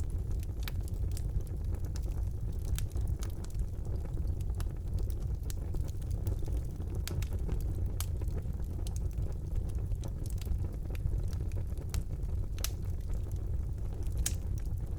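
Wood fire burning in a fireplace: a steady low rumble of the flames with scattered sharp crackles and pops, a few louder ones near the end.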